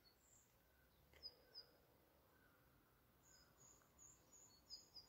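Near silence broken by faint, high bird chirps: two short ones about a second in, then a quick run of them in the last two seconds.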